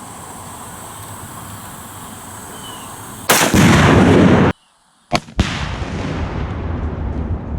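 About three seconds in, a .223 AR-15 shot sets off about 15 lbs of tannerite packed in a refrigerator: a very loud blast that cuts off abruptly. About a second later comes another sharp crack, then a long, loud low rumble.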